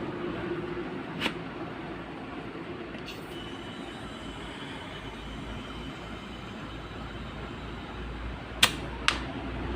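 Steady background rumble with three sharp clicks, one about a second in and two close together near the end.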